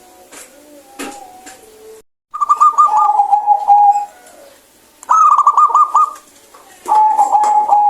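Zebra dove (perkutut) singing: three loud cooing phrases, each a fast trill that drops into a held lower note, starting about two seconds in.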